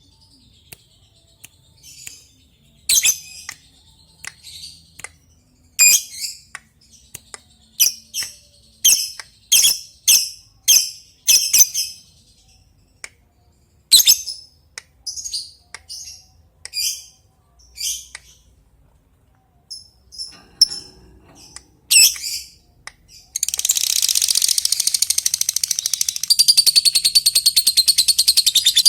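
Lovebird calling: short, sharp, high-pitched single chirps at irregular intervals, the clicky 'ngetik' calls, then about 23 s in a long unbroken rapid chattering trill, the 'ngekek', begins.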